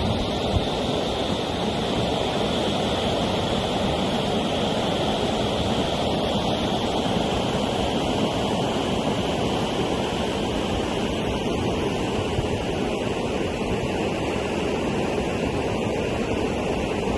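Floodwater rushing, a steady, unbroken noise with no let-up.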